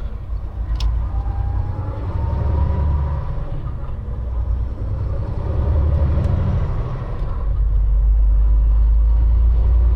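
Steady low engine and road rumble of a semi truck hauling a trailer, heard from inside the cab, growing louder over the last couple of seconds. A faint rising whine runs for about two seconds near the start.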